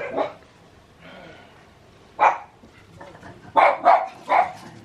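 A pet dog barking in short single barks: one near the start, one about two seconds in, then three in quick succession near the end.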